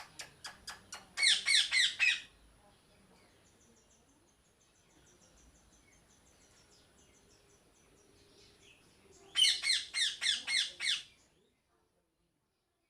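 Parrot squawking in two bursts of quick, harsh, repeated calls, one about a second in and another near the end, with faint high chirps of small birds in between. The sound cuts off suddenly a second or so before the end.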